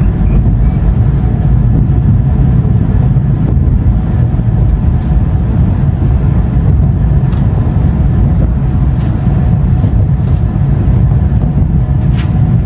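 Steady low rumble of a Shinkansen train running, heard from inside the passenger car, with a few faint clicks.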